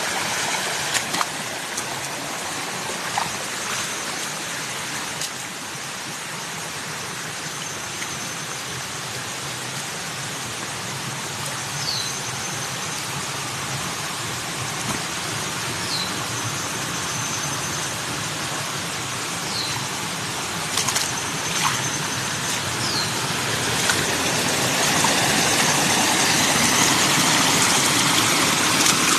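Steady rushing noise, with a few short, high chirps now and then and some faint clicks. The noise grows louder about three-quarters of the way through.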